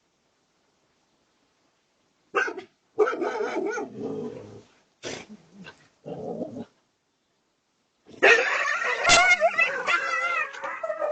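A dog barking and growling in short bursts starting about two seconds in, then, from about eight seconds in, a loud, unbroken run of high, wavering cries.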